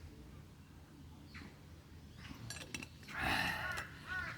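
A man's heavy breathy exhale about three seconds in, winded from push-ups, with crows cawing faintly in the background.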